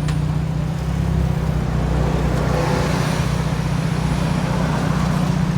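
A car running at a steady engine speed: a constant low engine and exhaust drone with road or traffic noise over it.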